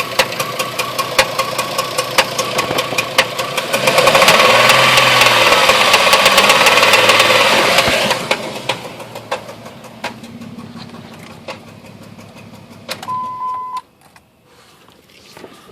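2004 Jeep Liberty engine running with a regular knock, about three a second, that appeared out of nowhere. Around the middle it is revved for about four seconds and then settles back. Near the end a short beep sounds and the engine shuts off.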